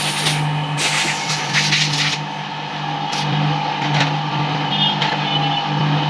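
Yamaha R15 single-cylinder 155 cc engine running with a steady hum. For about the first two seconds there is extra hissy, rattly mechanical noise over it.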